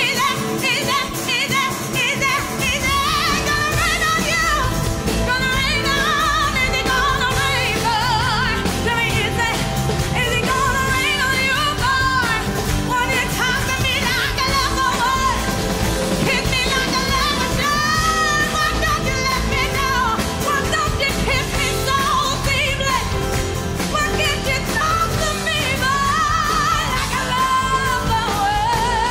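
Live band music with a female singer's wordless vocal ad-libs, full of runs and vibrato, over a steady full band.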